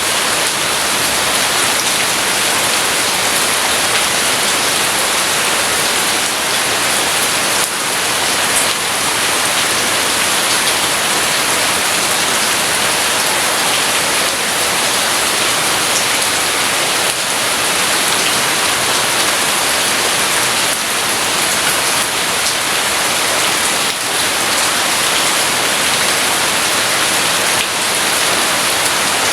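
Heavy rain falling steadily, a dense even hiss of rain on surfaces with no break.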